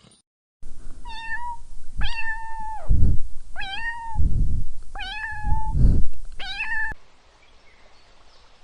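A cat meowing five times, about a second apart, each call a held high note; loud low rumbling noise comes between the later meows, and the meows stop about 7 seconds in.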